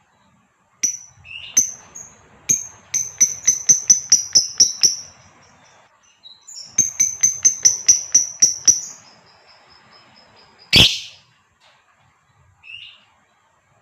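Female lovebird calling: two runs of rapid, high, repeated chirps at about five a second, each lasting two to three seconds, then one loud sharp screech near the end and a short call after it.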